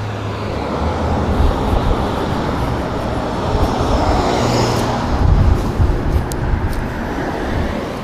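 Road traffic: cars passing close by, their tyre and engine noise swelling and easing.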